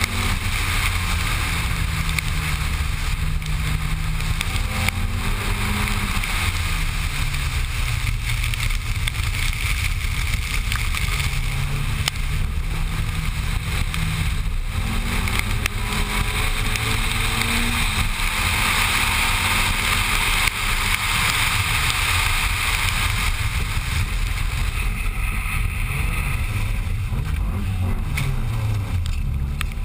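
A Honda CRX's four-cylinder engine revving up and down as it is driven hard around a wet track, its pitch rising and falling through the corners. Heavy wind buffets the microphone, and the wet tarmac gives a steady hiss of spray.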